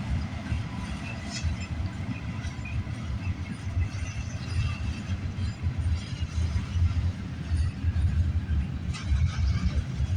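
A slow-moving freight train's cars rolling past on the rails, a low, uneven rumble.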